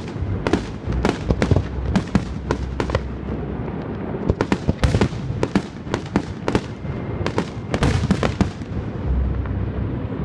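Fireworks display: aerial shells bursting in quick succession, a run of sharp bangs several a second. There is a brief lull about four seconds in, and the bursts thin out near the end.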